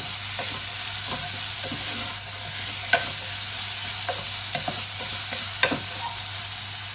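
Mixed beans and onions frying in olive oil in a pan, sizzling steadily while being stirred, the utensil scraping and clicking against the pan. Two sharper knocks of the utensil stand out, about three seconds in and near six seconds.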